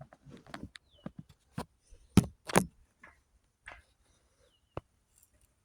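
Scattered short knocks and clinks, such as metal parts or tools being handled, with the two loudest close together a little past two seconds in.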